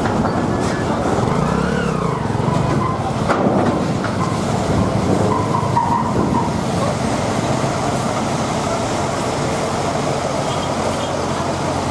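Steady noise of buses, trucks and cars running in slow, jammed traffic, with a brief rising and falling tone near the start and a short high tone about five seconds in.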